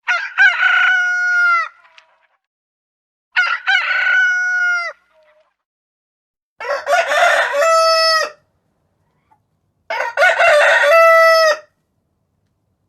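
Rooster crowing four times, each crow a pitched call of under two seconds with its last note held, about three seconds apart.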